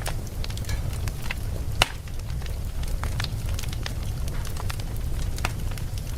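Campfire burning with irregular crackles and pops over a steady low rumble. The sharpest pop comes a little under two seconds in.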